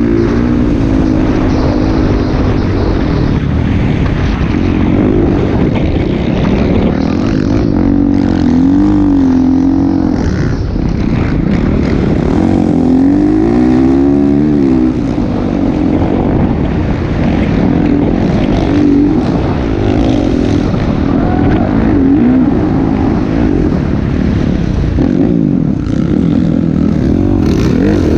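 Motocross dirt bike engine running loud, its pitch rising and falling again and again as the throttle is worked.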